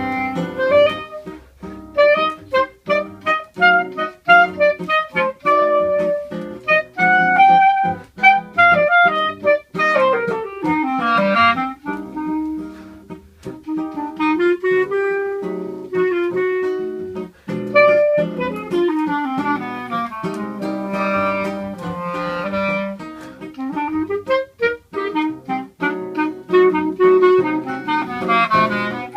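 Clarinet and seven-string guitar duo playing choro: the clarinet carries the melody over plucked guitar accompaniment and bass runs, with a long falling run about ten seconds in.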